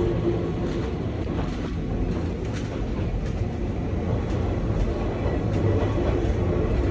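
Nankai 2200-series train car running on the line, heard from inside the car: a steady rumble of wheels and running gear with faint irregular clicks from the rails.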